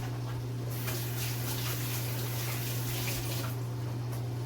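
Water running from a tap for about three seconds, starting under a second in, over a steady low electrical hum.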